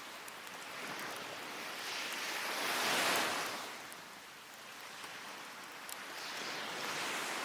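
Waves breaking and washing up the shore, one swell rising to a peak about three seconds in and another near the end. Faint crackles of a wood fire are scattered throughout.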